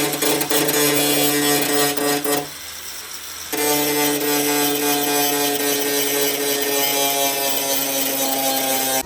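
Handheld electric power tool running steadily at a fixed pitch. It stops about two and a half seconds in, starts again a second later, and its pitch sags slightly as it keeps working.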